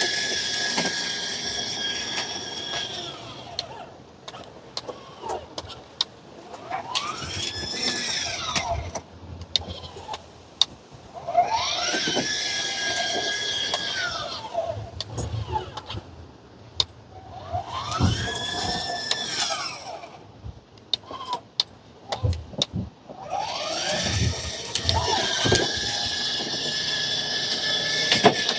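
Electric drive motors of a children's ride-on toy police car whining under remote control: five runs, each rising in pitch as it speeds up, holding steady, then falling as it stops, with light clicks and knocks between runs.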